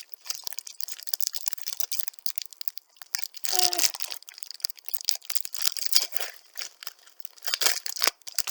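Packaging crinkling and tearing in irregular crackles as a set of notebooks is unwrapped by hand. A short hummed vocal sound comes about three and a half seconds in.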